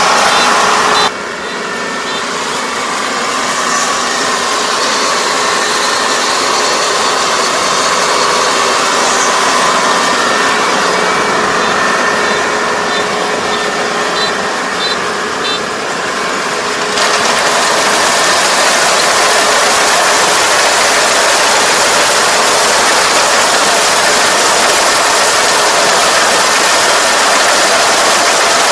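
Kubota ER470 combine harvester running, a loud, steady mechanical din of engine and threshing machinery. The sound changes abruptly about a second in and again around seventeen seconds in.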